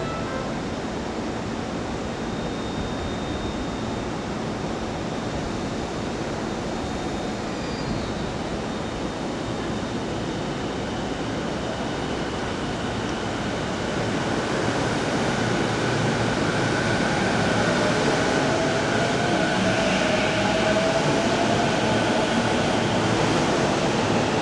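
JR East E233-series electric train pulling out of an underground station. There is a steady rumble of wheels and running noise, which grows louder about halfway through. A rising whine from its inverter-driven traction motors climbs in pitch as the train picks up speed.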